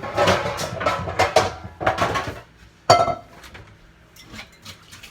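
Pancake batter being stirred in a bowl, the utensil clinking and knocking irregularly against the bowl, with one sharper knock about three seconds in.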